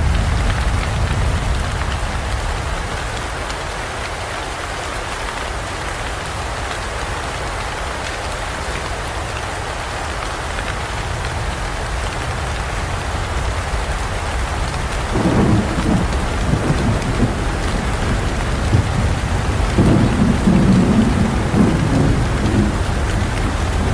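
Steady heavy rain falling in a forest. Thunder rumbles in repeated rolls from a little past halfway almost to the end.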